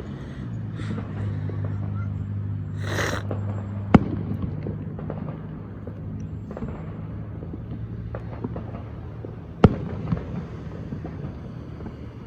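Fireworks going off: a hissing burst about three seconds in, then two sharp bangs, about four and ten seconds in, with a few smaller pops after the second. A steady low hum runs underneath.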